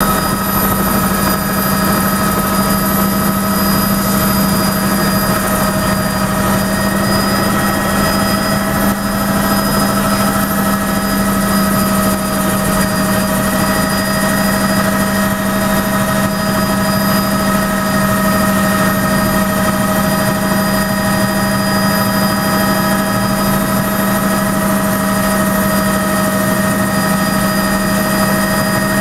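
Helicopter running steadily in flight: a constant low hum with several steady, high whining tones above it.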